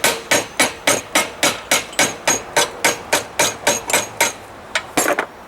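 Hand hammer striking a hot railroad spike on an anvil in a steady run of about four blows a second, drawing out the steel; the blows stop about four seconds in, then two last strikes follow near the end.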